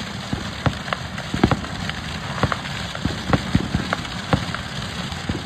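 Large bonfire crackling, with irregular sharp pops, several a second, over a steady hiss of burning.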